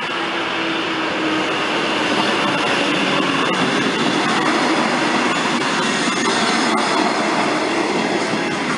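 Regional passenger train passing over a level crossing. Its running noise builds over the first couple of seconds, then holds as a steady rumble of carriages rolling by, with a few sharp wheel clicks over the rails.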